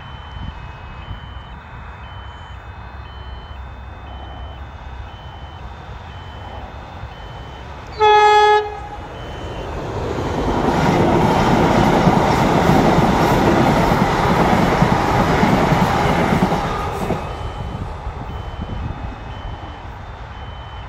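A train gives one short horn blast, then passes the level crossing with loud rushing wheel-and-rail noise that builds a couple of seconds later and fades after about seven seconds. A level-crossing warning beeps in a steady repeating pattern.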